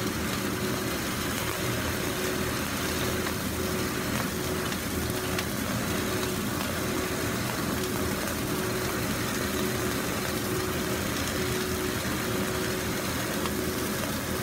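Boneless chicken thigh steaks frying in a pan, a steady even sizzle with a low steady hum underneath.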